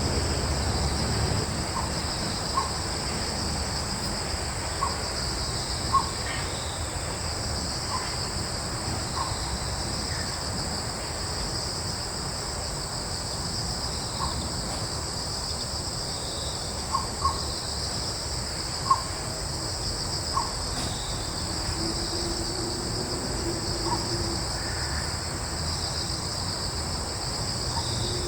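Steady chorus of crickets shrilling in two high continuous bands, with short, sharp bird calls popping up about a dozen times at irregular intervals and a low breeze rumble underneath.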